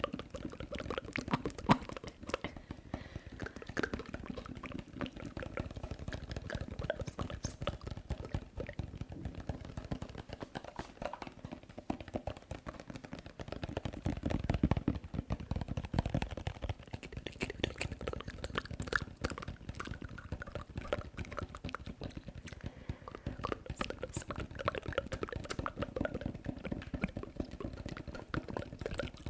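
Close-miked ASMR mouth sounds: a rapid, continuous stream of wet clicks and smacks.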